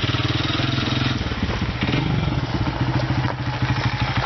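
Honda CRF100 dirt bike's small four-stroke single-cylinder engine running as it is ridden, its pitch rising and falling a little with the throttle.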